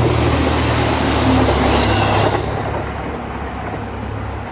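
Passenger train running past close by: wheels on rail and running gear make a steady loud rumble that drops away about two and a half seconds in as the last car goes by.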